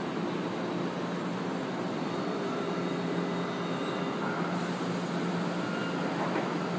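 São Paulo Metro Line 3 train running in a station, a steady rumble with a low hum.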